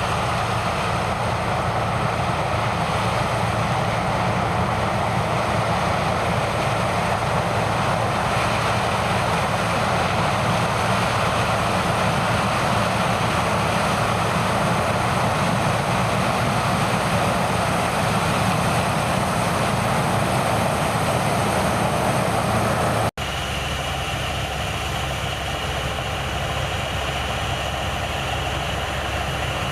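Heavy farm machinery running steadily, a continuous engine and machine drone. About three-quarters of the way through it cuts off abruptly and a different steady engine sound with a deeper hum takes over.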